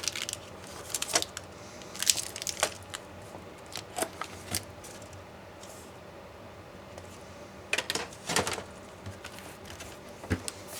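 Irregular clicks, taps and short scrapes of laptop parts and tools being handled during disassembly, in small clusters with a quieter pause in the middle.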